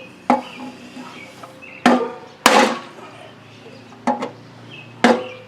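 Hand hammer striking a cold chisel against the steel mower deck at the engine mounting holes, chiseling the holes out to free seized mounting bolts: five sharp metallic blows at uneven intervals with a brief ring after each, the loudest about two and a half seconds in.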